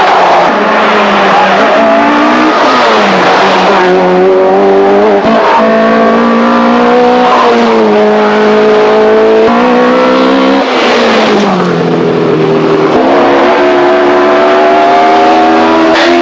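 1980s rally car engine at full throttle on a stage. The pitch climbs and then drops sharply at each gear change, several times over.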